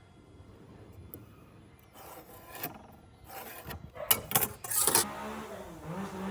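Hand scraping and rubbing strokes on wood, irregular and growing louder about two seconds in. Background music with a steady held note comes in near the end.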